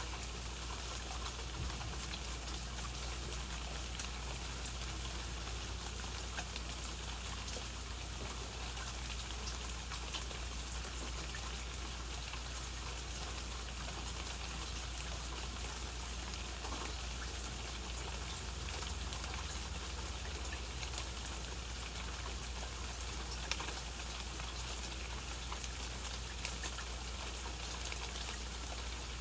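Steady rainfall, with many individual raindrops pattering and the odd louder drip.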